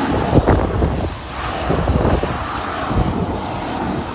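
Airliner's engines passing close by, a loud low rumble that the spotter could feel through the ground, with a steady high whine above it.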